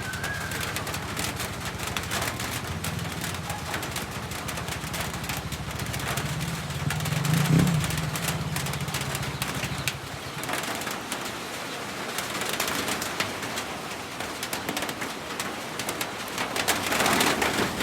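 Heavy rain pouring down, a steady hiss, with a low rumble through the first ten seconds that swells about seven and a half seconds in.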